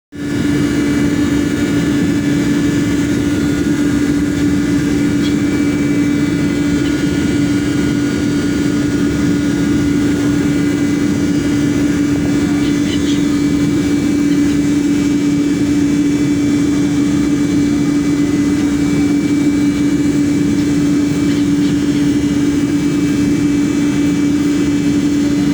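An engine running with a loud, steady drone and a constant hum that does not change in pitch.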